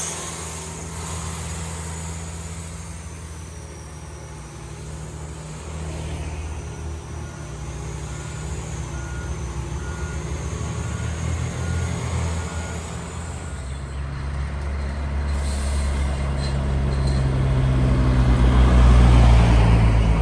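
Heavy diesel truck engine running, growing louder near the end as the truck draws close. In the middle, a faint short beep repeats about twice a second.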